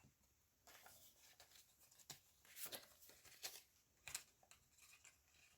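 Near silence with faint paper handling: a few soft rustles and light taps as paper pieces are placed and pressed onto a journal page.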